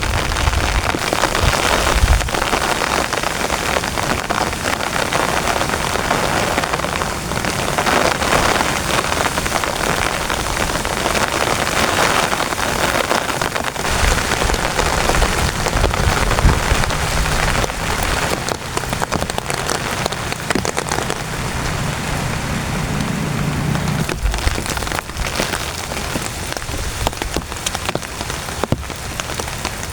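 Heavy rain pounding on a tent, a dense steady patter with low rumbling swells now and then. A low steady hum rises under it for a few seconds about two-thirds of the way in.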